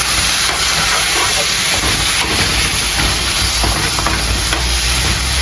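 Chicken frying in a hot pan with its soy-sauce mixture, a steady loud sizzle. A low hum comes in about two seconds in.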